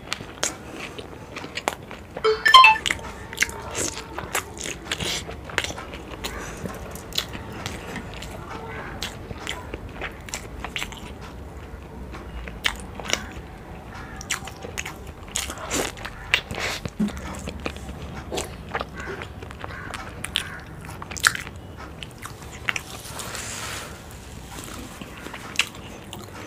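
Close-up eating sounds of a person biting and chewing fried boiled eggs coated in spicy egg curry, with many small clicks from the mouth. One louder click stands out about two and a half seconds in.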